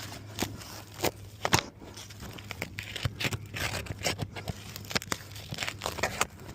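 Asphalt roof shingles being handled and pulled: irregular tearing, scraping and crackling, with a few sharp knocks.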